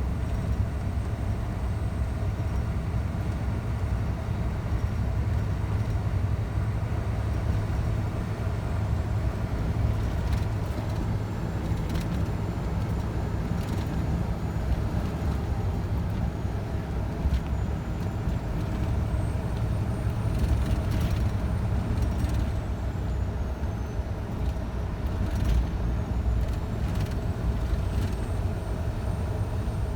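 Scania truck driving on the road: a steady low engine drone mixed with road noise, with a few short knocks along the way.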